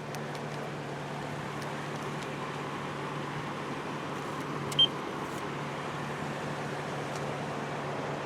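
Steady low hum and hiss of machinery, heard from inside a car in an automatic car wash bay, with one short high beep just under five seconds in.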